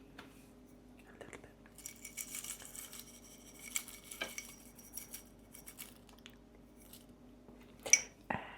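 Cutlery and dishes being handled: scattered soft clicks, clinks and light scraping, busiest in the middle of the stretch, with a sharper click near the end.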